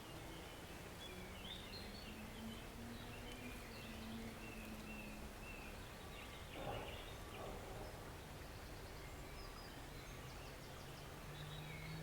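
Forest stream running steadily, with small birds chirping and trilling on and off above it. There is one brief louder sound about two-thirds of the way through.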